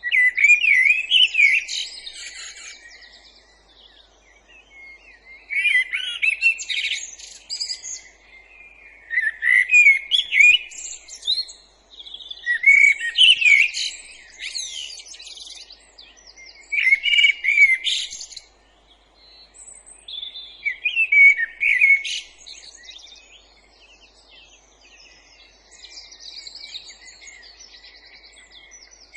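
A songbird singing a series of varied, warbling phrases, each about two seconds long, with short pauses between them; about seven phrases, the last one fainter.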